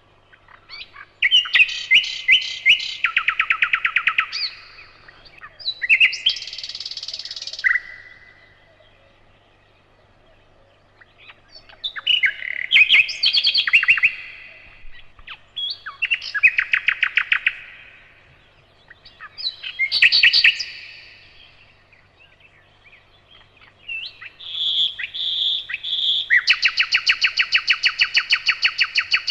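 Nightingale singing in separate phrases of rapid trills and sharp whistled notes, about six phrases with pauses of a few seconds between them. The last phrase is a long, fast repeated trill.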